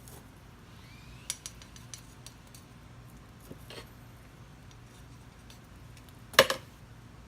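Light clicks and knocks of hard objects being handled: a sharp click a little over a second in, a few faint ticks, and one louder, short clatter near the end.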